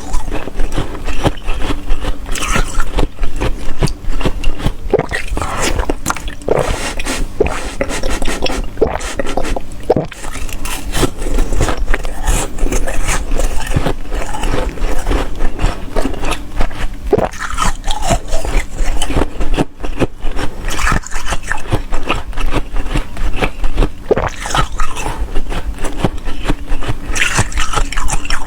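Ice being bitten and chewed close to the microphone: a continuous run of loud, irregular crunches and cracks, with wet slurping between bites.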